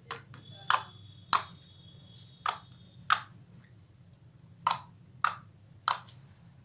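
Slime being pressed and poked by hand, giving a series of sharp, irregular popping clicks, about eight in all.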